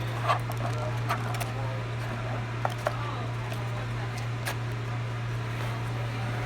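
Someone eating a grilled chicken sandwich, with a few short sharp clicks and crinkles of biting and handling the sandwich and its packaging, over a steady low hum.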